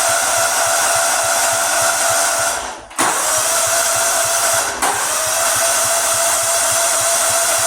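Electric starter cranking an old riding lawnmower's engine, a steady whine with a regular chug of about five or six beats a second. The engine does not catch. The cranking stops for a moment about three seconds in, then starts again.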